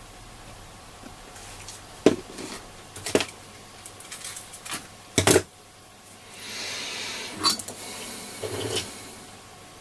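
Sharp clicks and taps of tools on a circuit board during hand soldering, a few seconds apart, followed near the end by a soft hiss of about two seconds as flux sizzles under the soldering iron.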